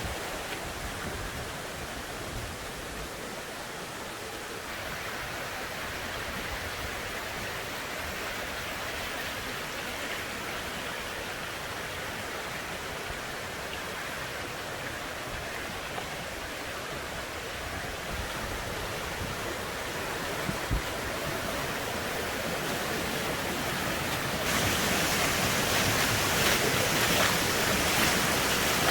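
Rushing water of a stream or waterfall, a steady hiss that turns abruptly louder and brighter a few seconds before the end. One short knock sounds about two-thirds of the way through.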